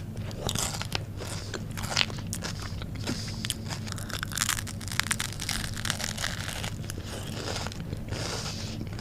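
Crunching and chewing bites of a viral Dubai chocolate bar, its crispy filling crackling in irregular snaps, one louder crunch about two seconds in. A steady low hum runs underneath.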